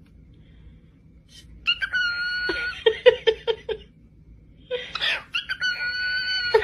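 Small yellow pet bird calling: a whistled note over quick chattering pulses, about five a second. It comes in two spells, the first about two seconds in and the second starting near the end.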